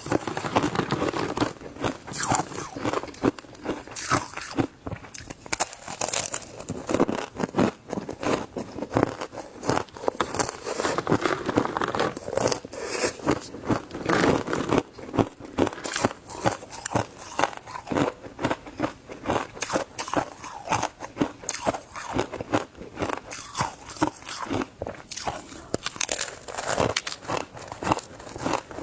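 A person biting and chewing shaved ice: dense, continuous crunching and crackling, with a quick stream of sharp crunches throughout.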